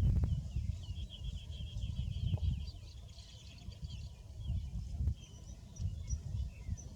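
Small birds chirping, with a quick run of trilled chirps in the middle, over a steady low rumble.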